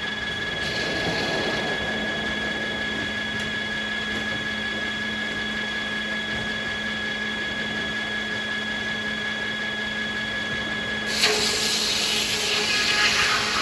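Sawmill saws and machinery running with a steady hum and whine between cuts. About eleven seconds in, a saw cuts through beech for a couple of seconds.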